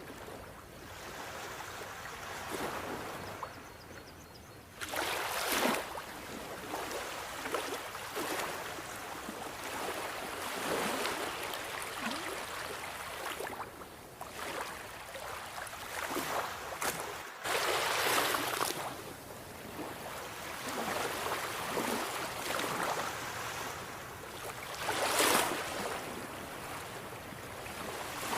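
Sea waves washing in: a steady rush of surf that swells into louder breaking surges about five, seventeen and twenty-five seconds in.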